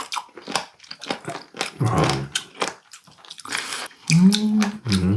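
Crunchy chewing of raw warty sea squirt (omandungi), its firm flesh crackling in many short sharp bites. A low hummed 'mmm' comes near the end.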